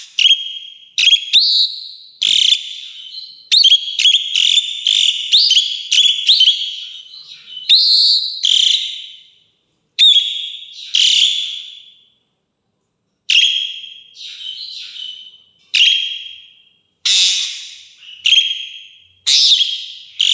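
Starling (jalak) giving loud, repeated whistled calls, one after another with short pauses, some sharp and clipped, some drawn out, with a couple of longer silent gaps near the middle.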